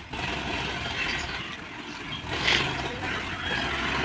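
Heavy diesel machinery running steadily, with a brief rushing noise about two and a half seconds in.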